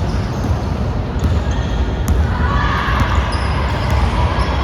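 Basketball being dribbled on a gym court during a game, with a few sharp knocks and short high squeaks over a steady low rumble in the hall.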